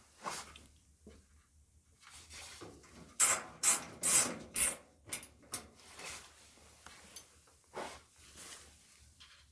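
Rubbing and scraping of parts being handled, with a quick run of sharp clicks and knocks about three to five seconds in and a few more scattered clicks after.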